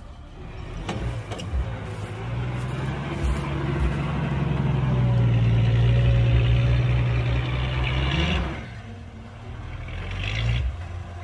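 Heavy diesel engine of earthmoving equipment revving up and holding high under load for several seconds, then dropping back sharply about eight and a half seconds in, with a shorter rev near the end.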